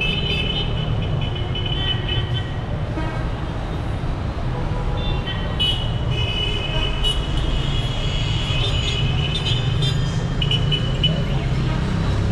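Dense city street traffic: a steady rumble of car and motorbike engines with car horns honking over it, held blasts overlapping near the start and again through the middle, and a couple of short toots near the end.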